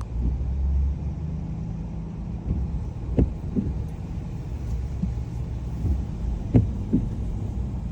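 Car driving on a wet road, heard from inside the cabin: a steady low rumble of engine and tyres, with a few brief knocks, about three and six and a half seconds in.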